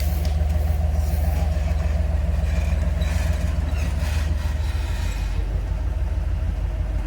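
Off-road vehicle's engine running steadily at low revs, with some hissing, rustling noise in the middle.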